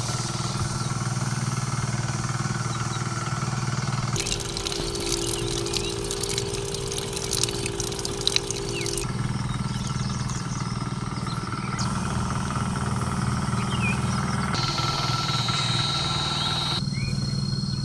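An engine running steadily outdoors. Its sound changes abruptly every few seconds, and there are a couple of sharp clicks about eight seconds in.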